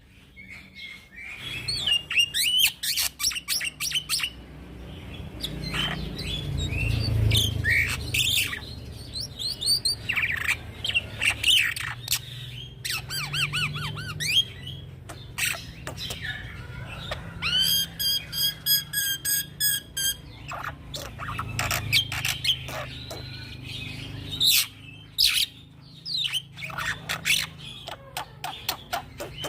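Young black-winged starling (jalak putih) singing a long, varied song of whistled notes, harsh squawky calls and chatter, with a fast rolling trill about two-thirds of the way through. A steady low hum runs underneath.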